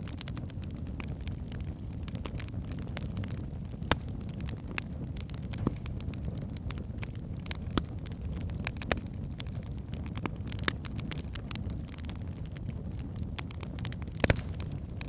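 Wood fire burning in a fireplace: a steady low rumble of flames with scattered sharp crackles and pops from the burning logs, a few louder pops standing out, the loudest near the end.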